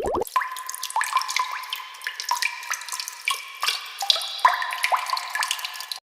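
Water-drop sound effect: an irregular patter of short, rising plinks of drops falling into water, cutting off suddenly near the end.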